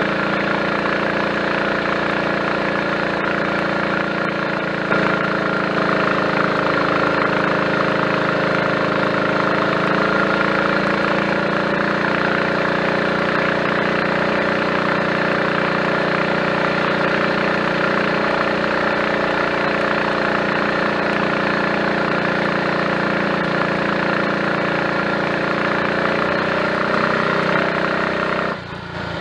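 Triumph Tiger Cub's 199 cc single-cylinder four-stroke engine running steadily under way, pulling cleanly without misfiring on a new carburettor slide, needle, needle jet and main jet. The sound dips briefly near the end.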